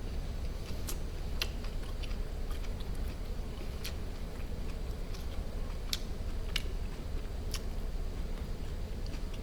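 Close-miked chewing and mouth noises of someone eating barbecued duck, with scattered sharp wet clicks every second or so over a low steady hum.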